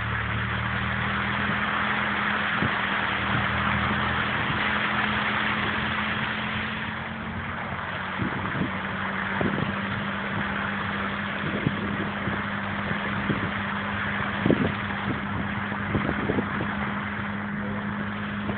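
Car engine running steadily under a broad hiss. From about eight seconds on there are a few light knocks.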